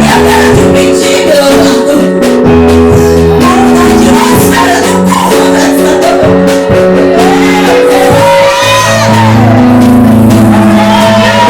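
Worship song in Portuguese: a singer over a band playing sustained chords with drum hits.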